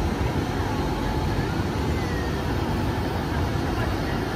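Passenger train rolling slowly past on a station track: a steady low rumble with a few faint, short high squeals of wheels on rail.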